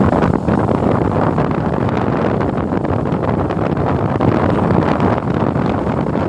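Steady riding noise from a moving motorcycle: wind rushing over the microphone mixed with the engine and road noise.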